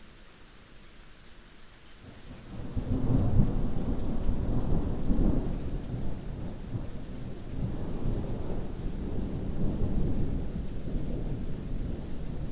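Rain falling, then thunder from about two and a half seconds in: a long, low rumble that swells and rolls on through the rest.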